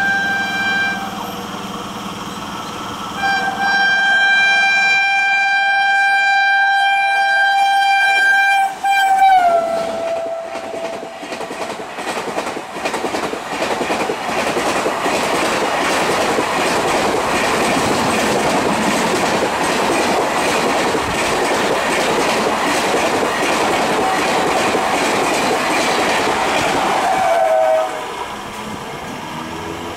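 WAP-7 electric locomotive's horn: a short blast, then a long one of about six seconds whose pitch drops as the locomotive passes. Then the loud rush and rhythmic clickety-clack of coaches passing at speed for nearly twenty seconds, with another horn blast that also falls in pitch near the end, before the noise cuts off.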